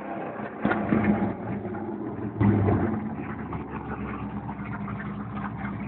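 Chevrolet Lumina SS ute's V8, tuned to about 400 kW, idling, with two short blips of the throttle in the first few seconds before settling back to a steady idle.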